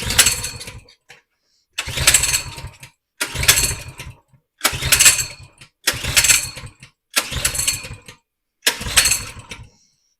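Coleman 100cc minibike engine being pull-started about seven times in a row, each rope pull cranking it over briefly without it catching. It will not fire on a makeshift spark plug pieced together from two plugs.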